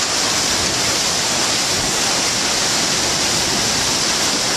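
Torrential rain pouring down in a steady, loud hiss with no breaks.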